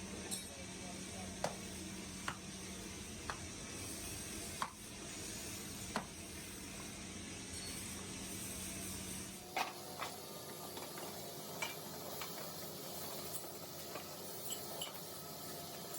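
Small-workshop metalworking noise: sharp metallic clicks and taps every second or two over a steady hiss and low hum. The background changes abruptly about ten seconds in.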